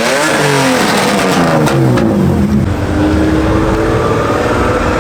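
Car engine revving. The pitch falls away over the first couple of seconds, then holds a steady note for about a second before fading.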